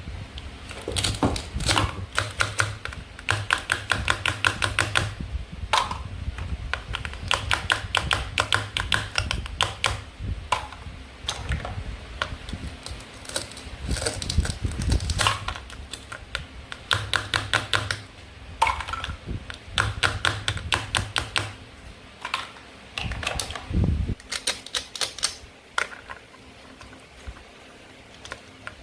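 Runs of rapid small clicks and taps from plastic toy fruit and vegetables being handled and cut. The runs come one after another, each lasting a second or two, like typing.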